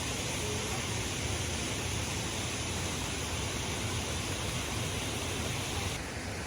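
Steady rushing of falling water, an even hiss with a low rumble underneath; the bright upper hiss drops away about six seconds in, leaving a duller rush.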